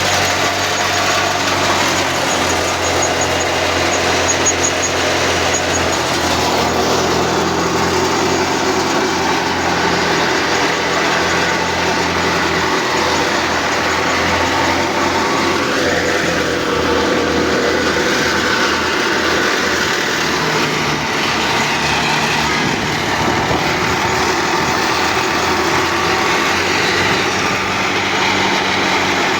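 Al-Ghazi tractor engine running steadily at a constant speed, driving a mustard threshing machine, with the thresher's whirring mixed in.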